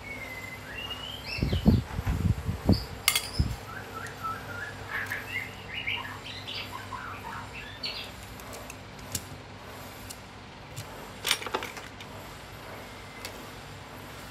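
Small birds chirping in the background, many short quick chirps over the first several seconds. A few heavy knocks in the first few seconds and sharp metal clicks, one about three seconds in and a couple near eleven seconds, come from tools and a steel bowl being handled on the workbench.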